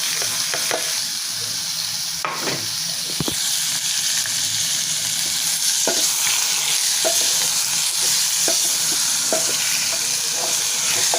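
Beef frying and sizzling in a metal cooking pot, with scattered knocks of a spoon stirring against the pot. The sizzle grows louder a few seconds in.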